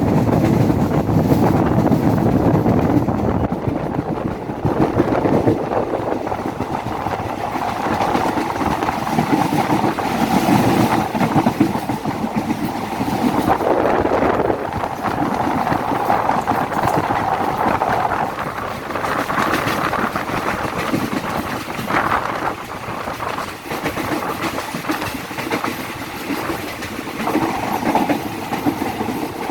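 State Railway of Thailand train running past on a curve: steady rumble and clickety-clack of its wheels on the rails.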